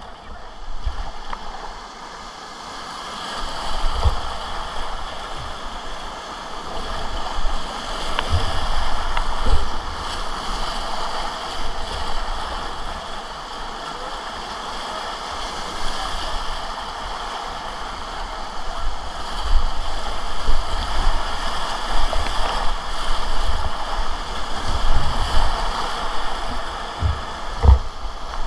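Whitewater rapids rushing steadily around a kayak, with scattered short low thuds through it.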